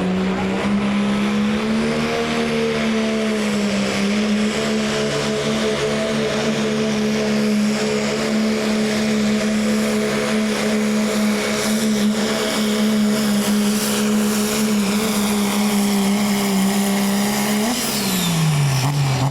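Diesel engine of a pulling vehicle held at high revs under full load, a steady high note that rises a little about two seconds in. Near the end the revs drop off sharply, as at the end of the pull.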